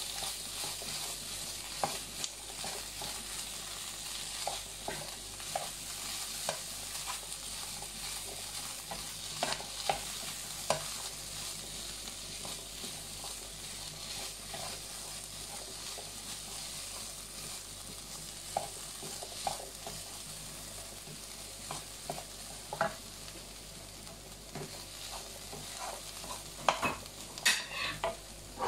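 Chickpeas, onion and spice masala with tomato purée frying in a pan: a steady sizzle, with a spoon stirring and knocking against the pan now and then, more often near the end.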